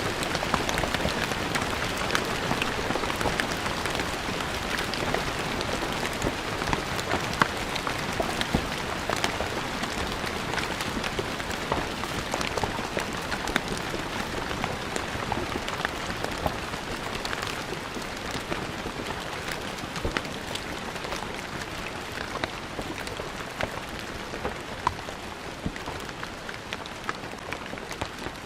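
Rain falling on stone paving: a steady hiss with many distinct drops pattering and splashing on the hard surface, slowly growing quieter.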